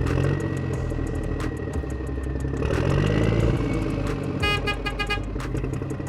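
Vehicle engine sound effect, running steadily, with a quick run of short horn-like beeps about four and a half seconds in.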